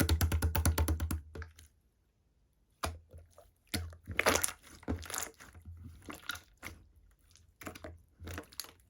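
Hands squishing and poking slime close to the microphone: a quick run of wet clicking pops for the first second and a half, then after a short pause scattered squelches and pops.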